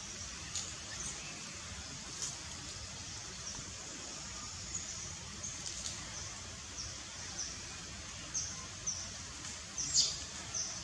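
Small birds giving short, high chirps about once or twice a second, over a steady background hiss, with one louder chirp near the end.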